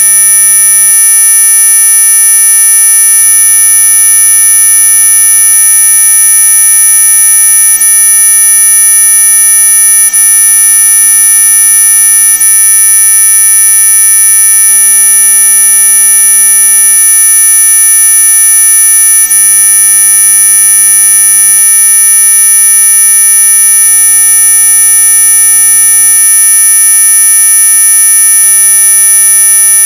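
Synthesized anti-mosquito repellent tone: a loud, unbroken electronic buzz built from many steady pitches at once, topped by a piercing high whine.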